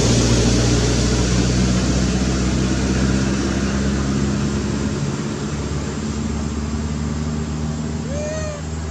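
A motor engine running with a steady low hum that slowly fades. A short high call rises and falls briefly near the end.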